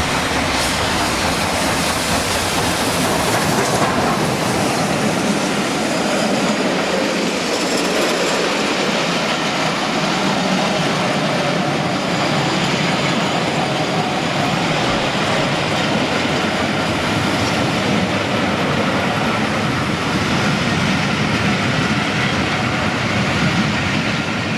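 A train running on the rails: a steady, loud rumble of wheels on track with faint squealing tones.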